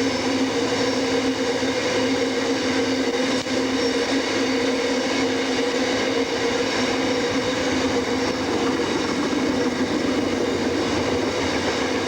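Diesel locomotive running at a steady, unchanging engine note, with strong fixed-pitch tones.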